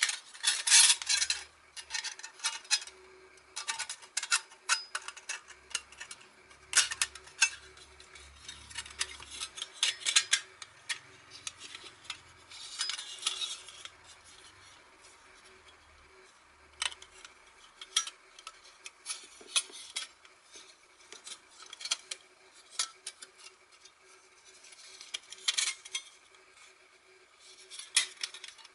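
Thin stainless steel parts of a small folding fire stand clinking and scraping against each other as they are handled, in irregular bursts of sharp clicks and rubbing.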